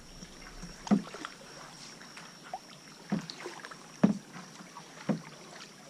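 Canoe being paddled, with four short, sharp paddle knocks about a second apart.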